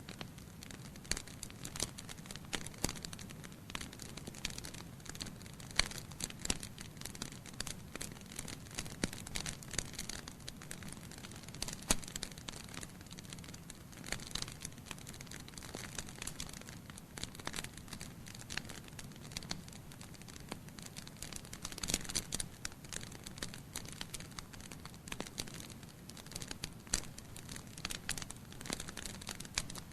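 Wood fire burning in a fireplace: logs crackling and popping in irregular sharp snaps over a steady low hiss of flame.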